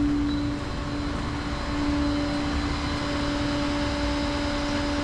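Tow truck's winch running with the engine under load, a steady whine over engine rumble, as the car is pulled up onto the truck. The whine weakens for about a second near the start, then comes back.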